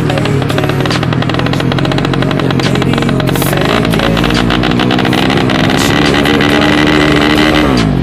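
Yamaha Vega 130cc single-cylinder four-stroke motorcycle engine running, with the engine speed climbing gradually and then dropping sharply near the end, while the engine is being tuned.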